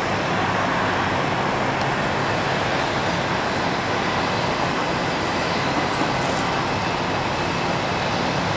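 Steady roar of jet aircraft noise around an airport, with a low steady hum underneath.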